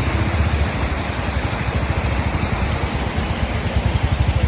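A motor vehicle's engine running close by, a rapid low throbbing, over a steady rushing background noise.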